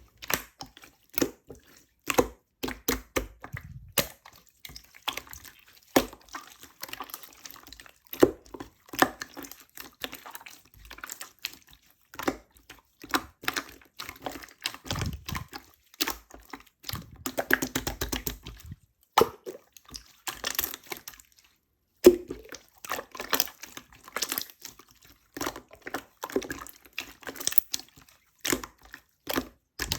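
Opaque slime squished and poked by hand, making irregular sticky clicks and small wet pops, with a denser squelching stretch a little past the middle.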